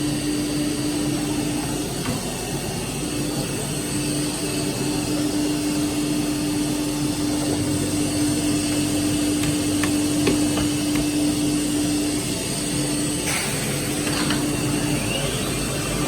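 A CNC machine running steadily: a constant hum with one held tone, a few faint clicks about ten seconds in and a short rising squeal near the end.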